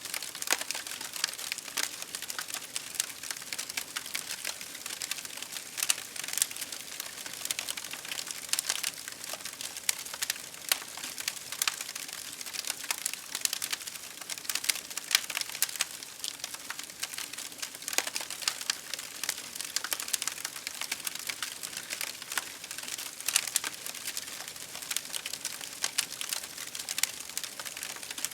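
Campfire crackling: dense, irregular pops and snaps of burning wood over a steady hiss.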